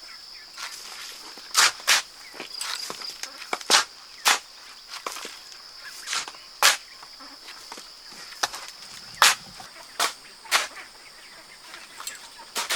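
A steady high-pitched insect drone, with a dozen or so sharp, irregular clicks or knocks standing out over it.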